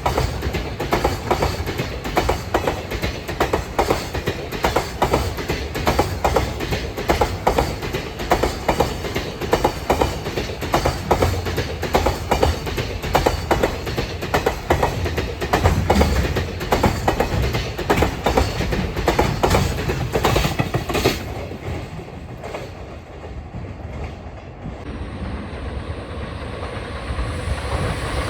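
A freight train of container wagons passing close by, its wheels clattering in quick repeated clacks over the rail joints. The clatter dies away about three-quarters of the way through, leaving a fainter rumble that grows louder again near the end.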